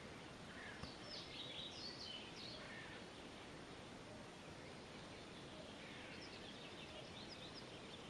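Faint birdsong: scattered short, high chirps from about half a second to three seconds in and again near the end, over a steady hiss.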